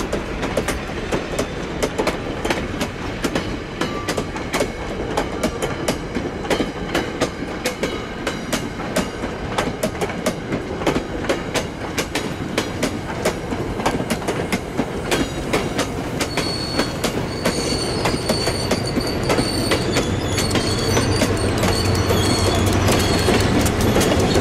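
Passenger coaches rolling past over jointed rail, the wheels clicking over the joints in a steady clickety-clack. From about two-thirds in a high wheel squeal joins, and near the end the low rumble of the diesel switcher pushing at the rear grows louder as it approaches.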